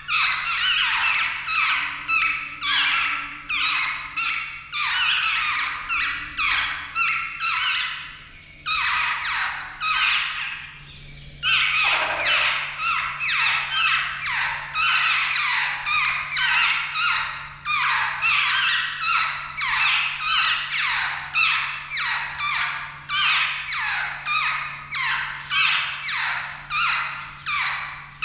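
Jungle babblers calling: a long run of harsh, squeaky calls, each sliding down in pitch, about two a second. The calls pause briefly about a third of the way through, then resume with one long falling call.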